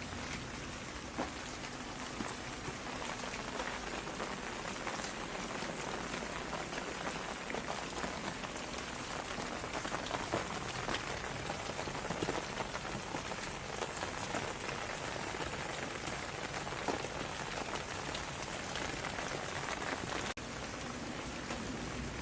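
Steady rain falling on a surface: a dense, even hiss with scattered individual drop ticks, briefly dipping about two seconds before the end.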